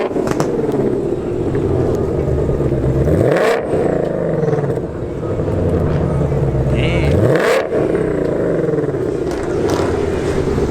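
Ford Mustang GT500 V8 engine revving under acceleration: its pitch climbs twice and drops off sharply about three and a half and seven and a half seconds in.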